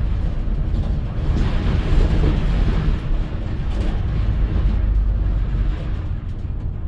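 A vehicle travelling on the road: a steady low rumble of engine and road noise.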